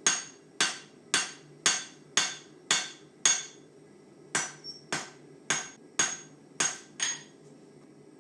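Hand hammer striking steel on an anvil in forging: ringing blows at about two a second, a run of seven, a short pause, then six more.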